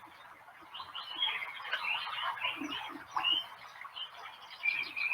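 Birds chirping and singing, many short high notes overlapping, with a few held whistled notes near the end.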